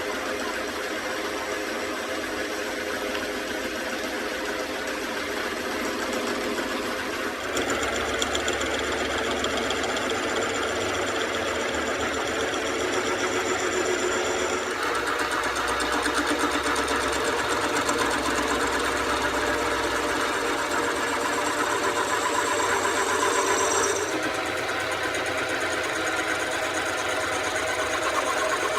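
Machinery running with a fast, even mechanical rattle, changing abruptly three times.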